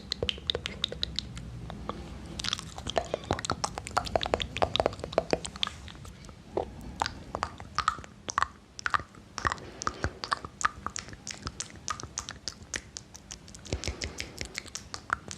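Close-miked ASMR mouth sounds: a dense, irregular run of wet mouth clicks and lip smacks.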